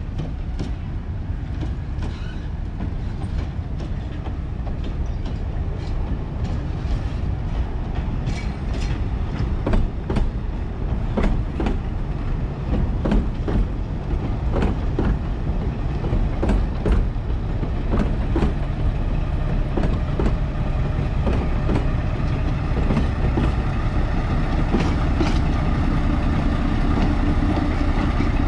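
Narrow-gauge passenger coaches rolling slowly past, their wheels clicking over rail joints and points, followed by the Lyd2 narrow-gauge diesel locomotive's engine running, which grows louder in the last third as the locomotive draws level.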